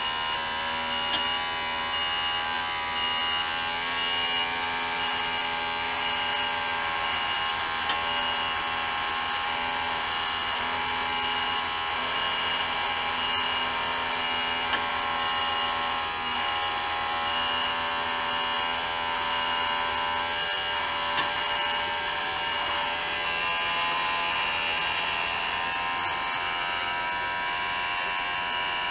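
2018 Isuzu Giga truck's straight-six turbo diesel idling steadily and quietly, heard up close in the open engine bay, as a constant even hum with a few faint ticks.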